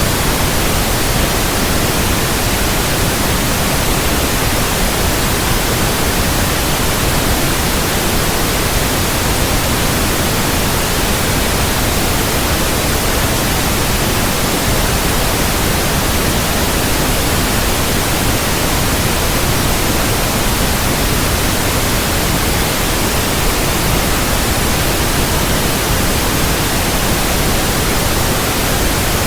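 Steady, loud white noise: an even, unchanging hiss across the whole range, used as a baby sleep aid.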